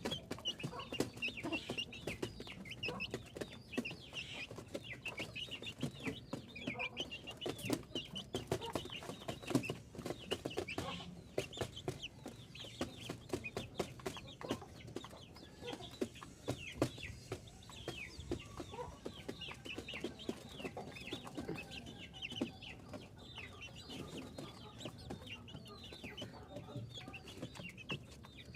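A flock of chickens clucking, with many short, high calls overlapping throughout.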